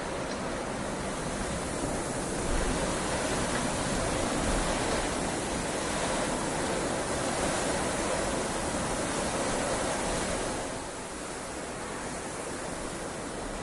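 Heavy rain falling steadily, a dense even hiss. It grows a little louder a couple of seconds in and eases back about ten seconds in.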